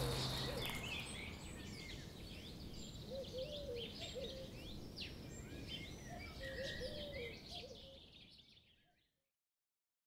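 Wild songbirds chirping and singing, with several lower whistled phrases among the high chirps, while the last acoustic guitar chord dies away in the first second. The birdsong fades out about nine seconds in.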